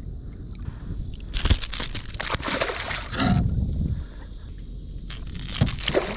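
Water splashing and sloshing against a kayak in two loud bursts, one about a second in lasting a few seconds and a shorter one near the end, with sharp knocks mixed in: a hooked ladyfish thrashing at the surface beside the boat.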